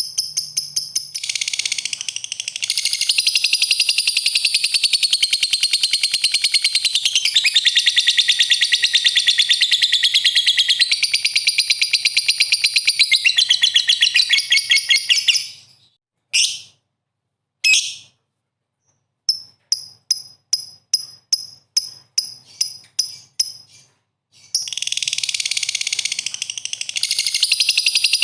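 A songbird singing a loud, high-pitched song of rapid, fast-repeated notes. It breaks off about halfway through for a few isolated calls and a run of short chirps about three a second, then resumes the full song. This is a lure song of the kind played to provoke caged 'fighter' songbirds into answering.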